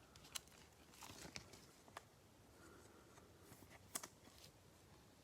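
Faint handling of trading cards: light rustling with a few soft, sharp clicks, the loudest about four seconds in.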